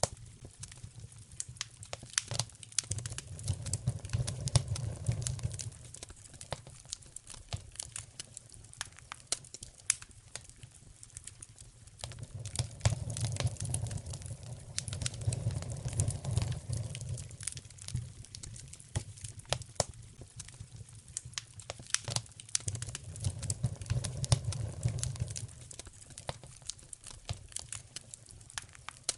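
Wood fire in a fireplace crackling, with frequent sharp snaps and pops over a low rushing rumble that swells and fades three times.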